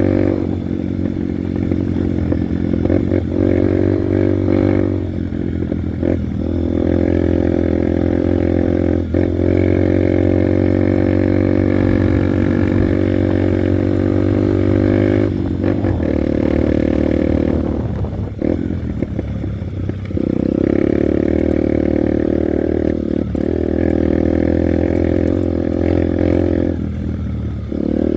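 Honda NXR 150 Bros motorcycle's single-cylinder four-stroke engine running under way at a steady pace. The engine note drops and picks up again several times, about five seconds in, around fifteen seconds, for a couple of seconds near twenty, and near the end, as the throttle eases off and opens again.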